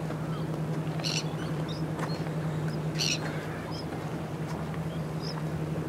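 Birds calling: a short harsh cry about a second in and another about three seconds in, with faint chirps between, over a steady low hum.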